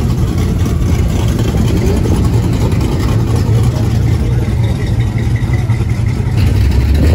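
Classic Chevrolet Chevelle's 350 V8 idling with a steady, deep rumble.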